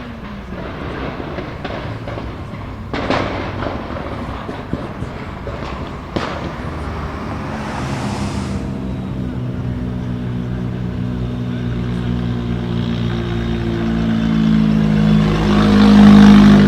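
Turbocharged Ford Sierra RS Cosworth four-cylinder engine running with an anti-lag system. There are two sharp bangs, about three and six seconds in. The engine note then rises steadily and grows loud near the end.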